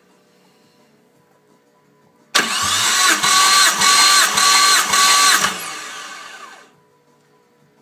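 Starter motor cranking a Mitsubishi 6G72 3.0 L V6 during a compression test: a loud whine with regular pulses from the compression strokes for about three seconds, then winding down in pitch and fading out as the starter is let go.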